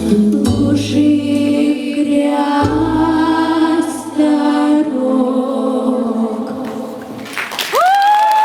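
Girls' vocal quartet singing the closing chords of a song in harmony, over a backing track with a deep bass line. Near the end, one voice slides sharply up into a long, high held note.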